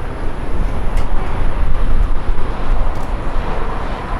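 Loud, steady rumble of a passing aircraft's engines.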